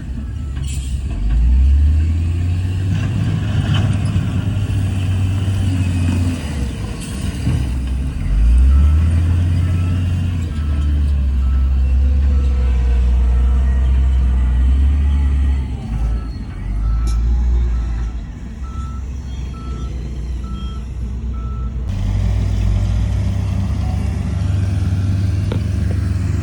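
Heavy diesel earthmoving machinery running and pushing under load, the engine note surging twice in the first half. Partway through, a vehicle's reversing alarm sounds a steady series of short beeps for about ten seconds.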